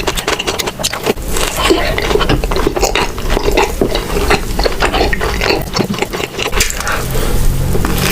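Close-miked eating sounds: chewing with a dense run of crackly clicks, loud and continuous.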